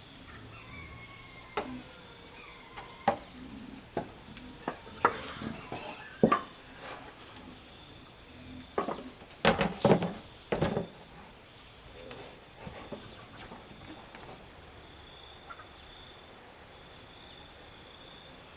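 A steady, high-pitched chorus of insects chirring, with scattered sharp knocks and clicks over it. The knocks are loudest in a cluster about halfway through and die away after.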